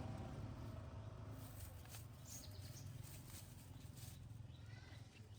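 Faint outdoor ambience: a low steady rumble with a few short, high bird chirps.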